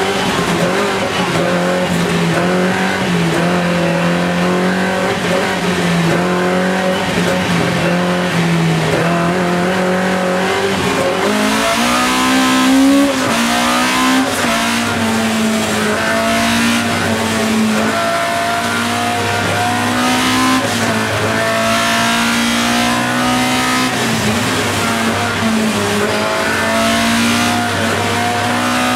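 Opel Kadett C race car's 2-litre 16-valve four-cylinder engine, heard from inside the cabin, driven hard through a slalom. The engine note climbs and drops in pitch again and again as the throttle and gears change.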